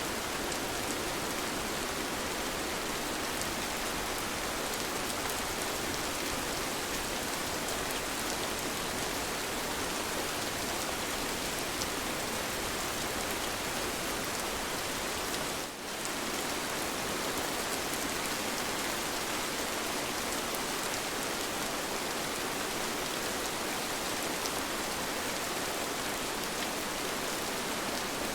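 Steady rain falling, an even hiss of many drops, with a momentary dip in level a little past the middle.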